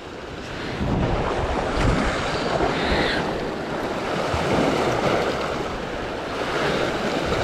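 Sea waves surging and washing against coastal rocks, with wind buffeting the microphone.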